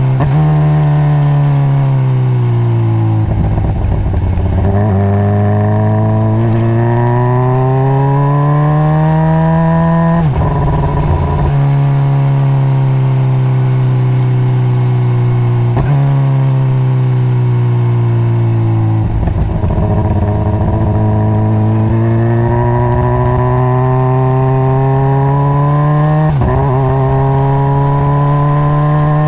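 2021 Honda CBR600RR's inline-four on its stock exhaust, ridden through the gears. The engine pitch rises under acceleration, breaks briefly at gear changes about 3 s, 10 s, 19 s and 26 s in, and holds steady for several seconds in the middle.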